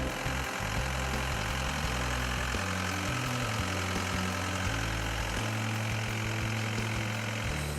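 Diesel engine of a Case TR320 tracked skid steer running at a steady level, with the stepping bass notes of background music underneath.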